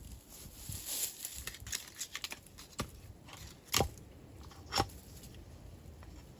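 Irregular crackles and clicks, with two louder sharp knocks about a second apart near the middle.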